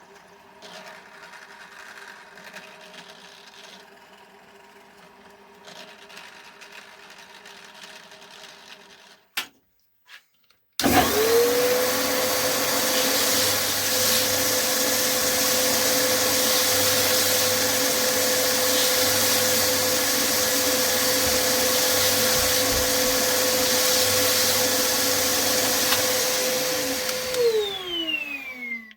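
A quieter machine hum at first. After about eleven seconds an electric power tool's motor starts, quickly comes up to speed and runs loud and steady with a high whine and rushing noise for about sixteen seconds, then winds down near the end.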